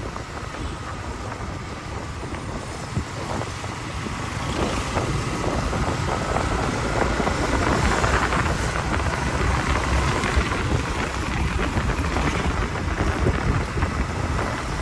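Wind buffeting the microphone and engine and road noise from a motorbike riding through traffic, with a faint steady whine; it grows louder about four seconds in.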